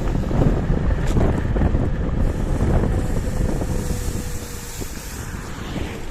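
Wind buffeting the microphone during a ride on a KuKirin G2 electric scooter, a heavy low rumble that eases off slightly toward the end. A faint steady high tone joins about halfway through.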